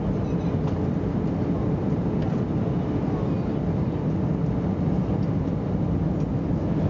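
Steady drone of engines and airflow inside the cabin of an Airbus A321 airliner in flight. The noise is heaviest in the low end and carries a faint steady hum.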